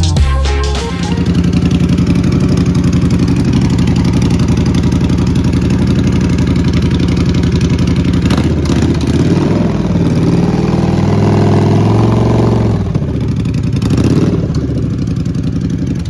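Custom 2021 Triumph Bobber's 1200 cc parallel-twin engine running loud through its custom exhaust: a steady idle, then the throttle blipped so the note rises and falls around ten to thirteen seconds in. The sound cuts off abruptly at the end.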